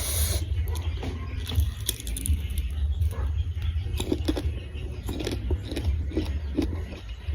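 Close-miked chewing of crunchy unripe mango: a run of irregular crisp crunches and wet mouth clicks, several a second, over a steady low rumble.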